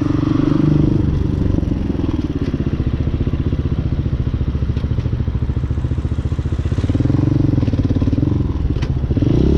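Hawk 250 single-cylinder four-stroke dirt bike engine heard from the bike while riding. The engine drops in pitch about a second in and runs at low revs with a fast putter for several seconds. It picks up a little around seven seconds in, then revs up sharply near the end.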